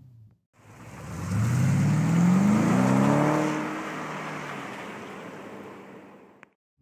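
Tuned BMW 750i (F01) twin-turbo V8 with a Supersprint exhaust accelerating hard, its engine note climbing in pitch, then fading away over the last few seconds.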